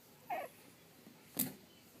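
Pug/dachshund mix puppy, three and a half weeks old, whimpering once: a short call falling in pitch. About a second later comes a short sharp knock.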